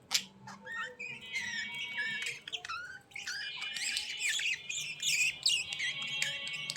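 Many small birds calling at once, a dense mix of quick chirps and harsh, buzzy squawks with no pause, and a single sharp click just after the start.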